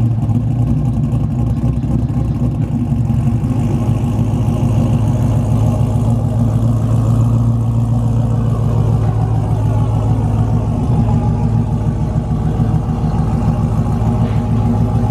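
Vehicle engine idling steadily, a loud, even exhaust note.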